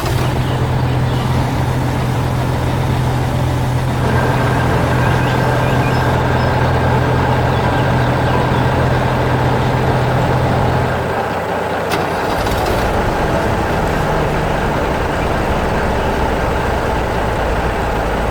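Heavy truck engine running steadily in a low drone, which gives way about eleven seconds in to a different steady engine drone.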